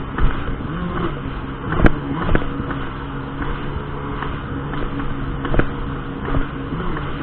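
Jet ski engine running steadily at cruising speed, with several sharp knocks on top, the loudest about two seconds in.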